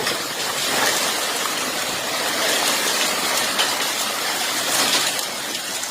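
A hailstorm: heavy rain and hail pouring down in strong wind, heard as a steady rushing noise.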